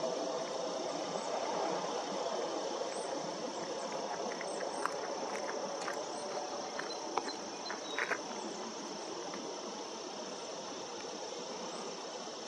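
Outdoor lakeside ambience: a steady high insect drone, like crickets, over a low rumble. A few short clicks come about halfway through.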